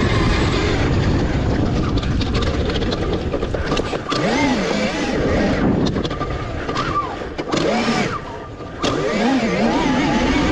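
Revolt electric dirt bike being ridden: the electric motor's whine rises and falls with the throttle over a steady rushing noise. It eases off briefly about four seconds in and again around eight seconds.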